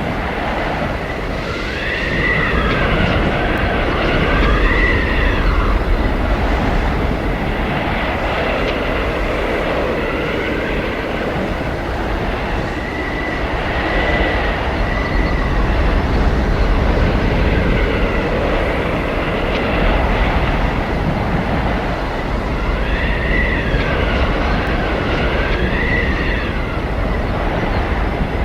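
Blizzard wind: a loud, steady rush of gusting wind with a high whistling howl that rises and falls, swelling up several times.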